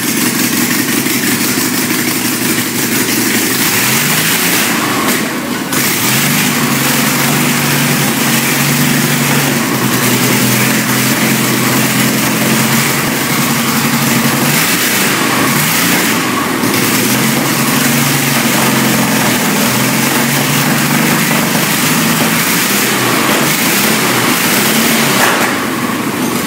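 Rebuilt Volkswagen trike's air-cooled flat-four engine running loudly without its proper mufflers, revved up and let back down several times. The engine still needs tuning, probably its ignition timing.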